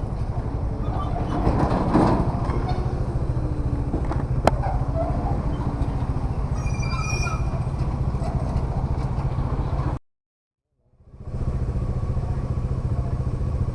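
Bajaj Dominar 400's single-cylinder engine running at steady road speed, heard from the rider's seat with wind and road noise. A sharp click about four and a half seconds in, and the sound cuts out completely for about a second near the end before resuming.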